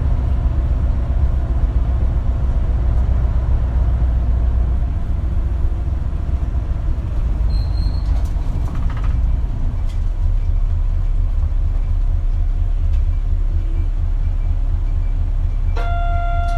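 Diesel bus engine and running noise heard from inside the cabin, a heavy low rumble that settles into an even low pulsing about halfway through. A short high beep sounds a little before halfway, and a steady electronic tone starts near the end.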